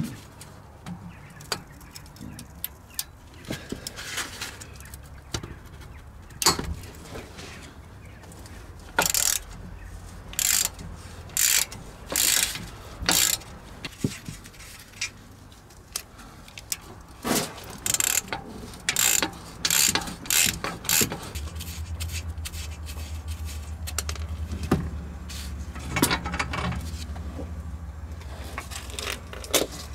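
Ratchet wrench clicking in short repeated bursts while undoing the exhaust fixing bolts.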